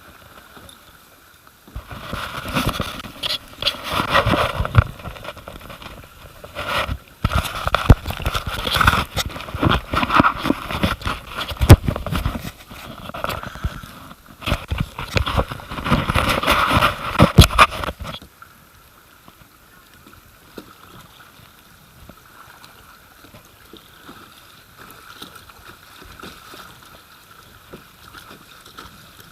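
Water splashing and gurgling around a kayak under paddle, with sharp irregular knocks, for about sixteen seconds; then it drops to a quieter, steady flow of river water.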